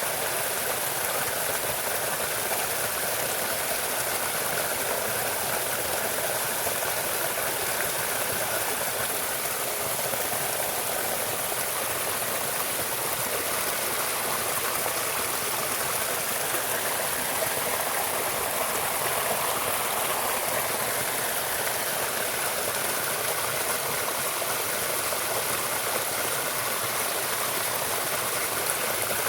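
Steady rushing of a stream's running water, even and unbroken.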